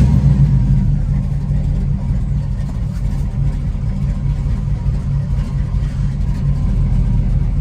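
1979 Chevrolet Impala's engine catching right at the start and then running steadily and loudly for several seconds.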